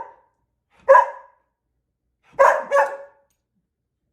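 Dog barking: a single bark about a second in, then two quick barks about a second and a half later.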